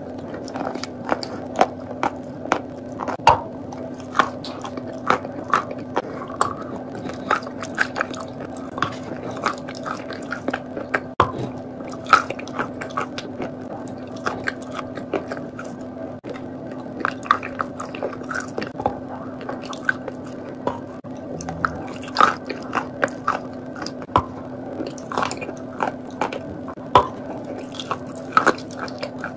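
Close-miked biting and chewing of a crumbly, chalk-like block: irregular sharp crunches about once or twice a second, with wetter chewing in between.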